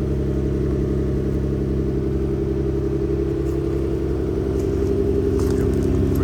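Nissan Skyline GT-R's twin-turbo straight-six running steadily while warming up, an even low drone that grows slightly louder near the end.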